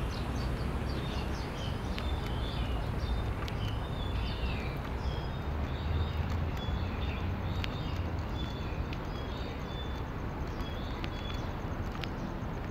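Many small birds chirping and twittering in quick, overlapping calls, over a steady low rumble of outdoor noise.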